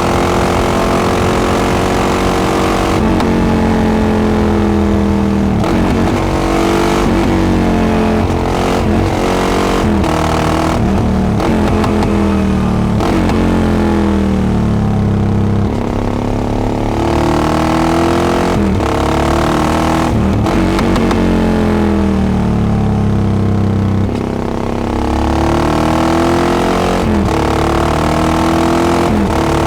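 Yamaha XT660X's single-cylinder engine through a Devil carbon exhaust, revving while ridden. Its pitch climbs and drops again and again as it goes through the gears, with a couple of brief lifts off the throttle.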